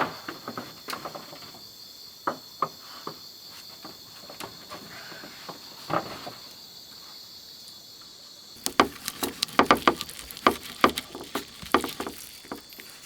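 A steady, high insect drone with a few scattered sharp clicks. About two-thirds of the way in, the drone cuts off and a rapid run of loud crackles and snaps begins, like dry leaves or twigs being trodden or handled.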